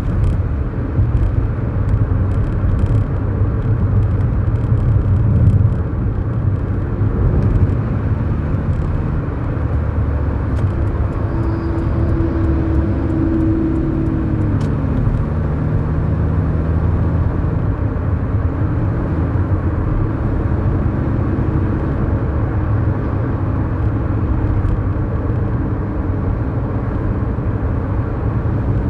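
Engine and road noise of a 2011 Kia New Morning, its 999cc four-cylinder engine running steadily under way, heard from inside the cabin. A low, steady rumble dominates.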